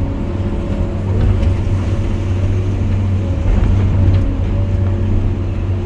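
Hydraulic excavator's diesel engine running steadily under load while digging and loading a truck, a low drone with a constant whine above it, working harder about a second in and again near four seconds.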